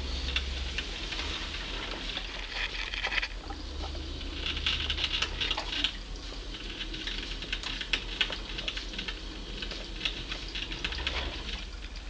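A domestic cat chattering at birds: several bursts of rapid clicking, each a second or so long, over a steady low hum.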